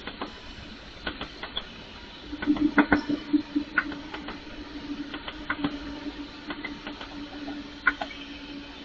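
A train rolling past slowly, its wheels clicking and clacking irregularly over rail joints and points. A steady low hum comes in about two and a half seconds in.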